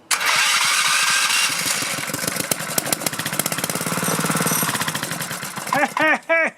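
Small four-stroke go-kart engine cranked by its electric starter and firing on ether sprayed into the carburetor, running in a rapid, rough pulse for about five seconds before stopping. A man's voice follows near the end.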